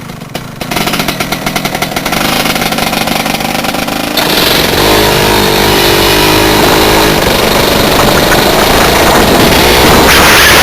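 Rotax Max 125 two-stroke kart engine pulling away from low revs: a pulsing beat at first, then about four seconds in it opens up, much louder, and climbs in pitch as the kart accelerates, staying loud to the end.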